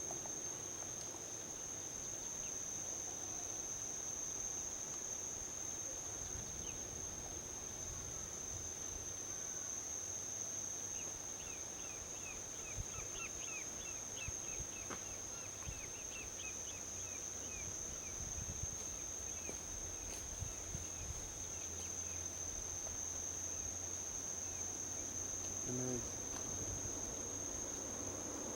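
Insects trilling in one steady, unbroken high-pitched drone over a low, even rumble of distant highway traffic. A bird gives a quick series of short chirps in the middle.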